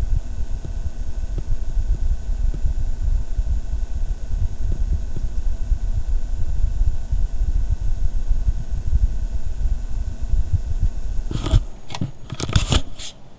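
Desktop computer buzzing from the back near its power supply: a loud, rough low buzz with faint steady high tones above it, which the owner finds abnormal. A few sharp clicks and knocks come near the end as the buzz fades.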